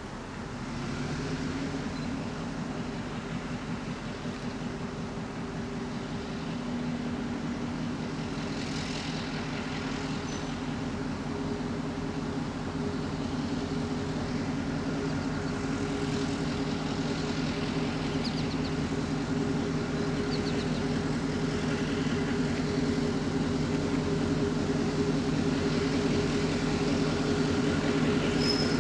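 Diesel locomotive engine running steadily, gradually growing louder.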